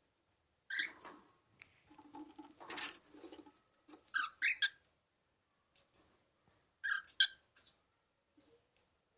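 Cockatiel giving short, high chirps and squawks in three separate bursts, with softer scratchy sounds between them.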